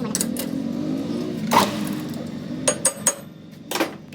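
Hammer striking metal: sharp ringing knocks, one about a second and a half in, three in quick succession near three seconds and one more shortly after, over a low steady hum.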